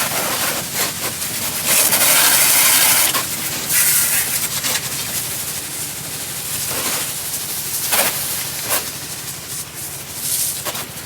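Pressure washer jet spraying onto a muddy wheel in bursts: a loud hiss, longest in the first few seconds, then shorter blasts, over a steady low motor hum.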